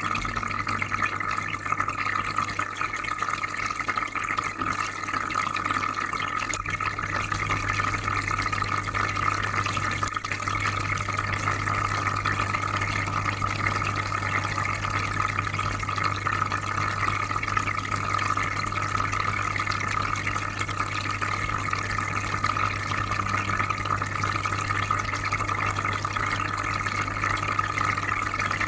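Aquarium filter running: steady bubbling, trickling water over a constant low hum.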